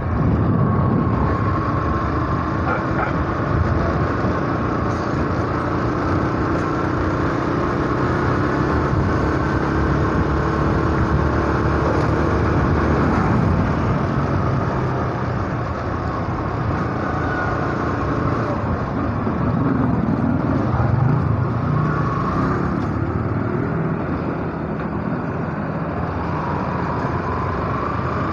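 Yamaha SZ motorcycle's single-cylinder engine running under way at low street speed, its pitch rising and falling gently as the throttle changes.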